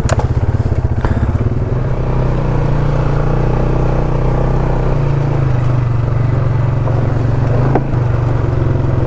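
ATV engine running steadily at low speed while riding a trail, with a few brief knocks and clatters; the engine pitch shifts slightly a couple of times.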